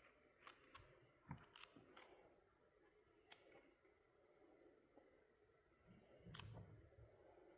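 Near silence: quiet room tone with about half a dozen faint, scattered clicks, most of them in the first two seconds and one more near the end.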